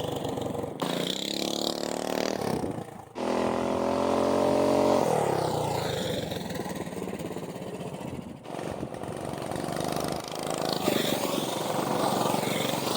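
Small single-cylinder four-stroke engines of modified Coleman mini bikes running as they are ridden. One revs up with rising pitch about three to five seconds in, then eases off.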